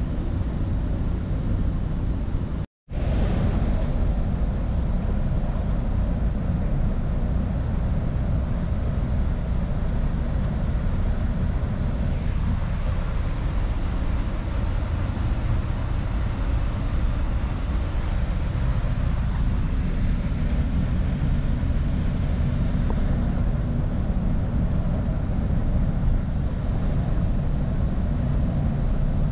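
Northstar commuter train in motion: a steady low rumble with a rushing noise over it. The sound drops out briefly about three seconds in.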